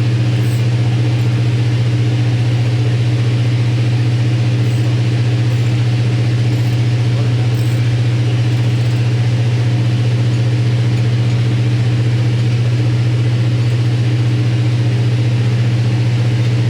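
Running machinery giving a loud, steady low drone with fainter overtones above it, unchanging throughout, typical of a nearby engine or generator running.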